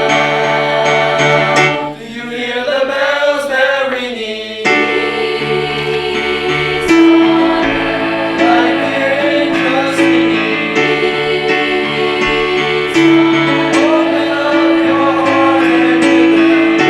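Choral music: a choir singing held notes over instrumental accompaniment, with a wavering sung passage a few seconds in.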